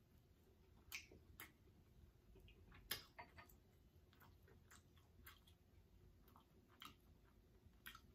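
Faint, scattered mouth clicks and smacks of someone chewing Cornish hen meat eaten by hand, about eight in all, with the sharpest click about three seconds in.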